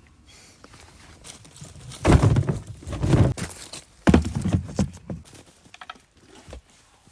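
Two bouts of dull thumps and rustling, each a second or so long, with a few light clicks between them.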